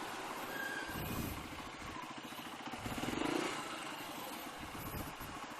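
Rusi KR125 motorcycle engine running while the bike is ridden, with a brief rise in engine speed and loudness about three seconds in.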